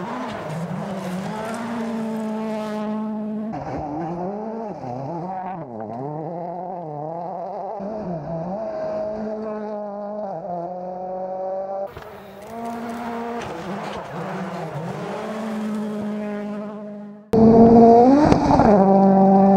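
Rally cars' engines revving hard and dropping back between gear changes in a series of cut-together passes, the pitch swooping up and down. The last pass, near the end, is the closest and loudest.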